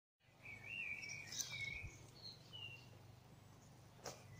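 Birds singing in short warbling phrases, loudest in the first two seconds, over faint steady outdoor background noise, with a sharp click near the end.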